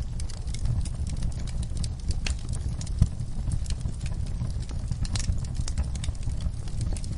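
Wood fire in a fireplace crackling, with irregular snaps and pops over a low steady rumble; one sharper pop about three seconds in.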